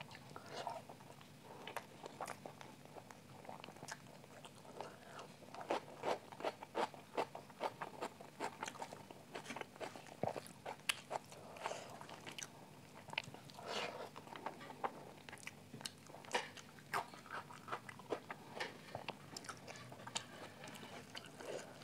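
Close-miked eating sounds: chewing and many irregular wet mouth smacks and clicks as a person eats curry-mixed rice by hand, with fingers squishing through the rice on a steel plate.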